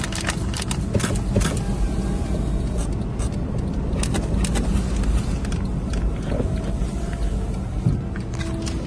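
A running motor vehicle's steady low rumble, with scattered sharp clicks and knocks over it.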